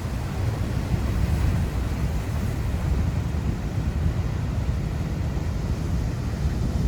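Heavy ocean surf rushing and rumbling, with wind buffeting the microphone.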